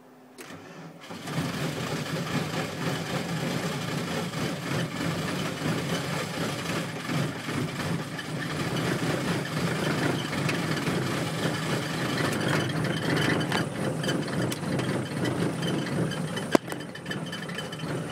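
Cold start at −19 °C without the auxiliary heater: a VW T3 Syncro's four-cylinder diesel engine cranks on the starter, catches after about a second and keeps running steadily. A single sharp click comes near the end.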